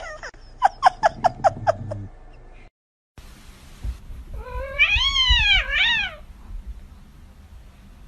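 A cat's long drawn-out meow that rises and falls in pitch and breaks into a shorter second call. It comes a few seconds in, after a quick run of about seven short, sharp chirp-like sounds.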